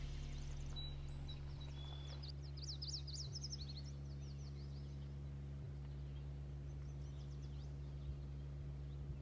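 Birds chirping in quick high trills, loudest in the first few seconds and fainter later, over a steady low hum of several held tones that shifts in pitch a few times.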